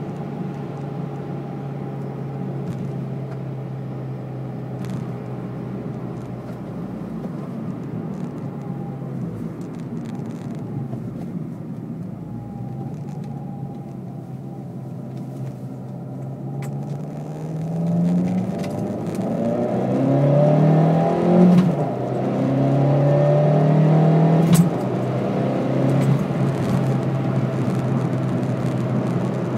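Abarth 500's turbocharged 1.4-litre four-cylinder engine, with a Record Monza exhaust and BMC air filter, heard from inside the cabin. It drones steadily at a cruise, then a little over halfway in it pulls harder and louder, its pitch rising and dropping several times as it goes up through the gears. A short sharp click comes near the end of the hard pull.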